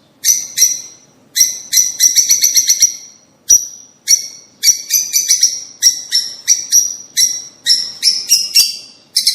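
Birds chirping in a quick run of high, sharp call bursts and short rattling trills, one after another with brief gaps between them.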